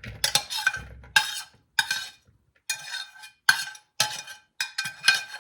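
A spoon scraping and knocking chicken filling into a bowl, about eight sharp strokes, each leaving a short ringing tone from the bowl.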